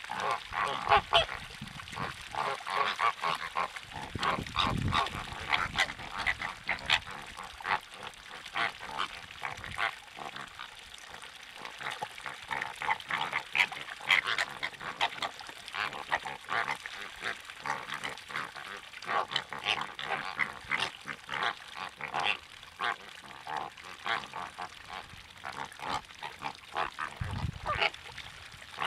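A flock of water birds calling, a continuous chatter of many short overlapping calls. Two brief low rumbles come about five seconds in and near the end.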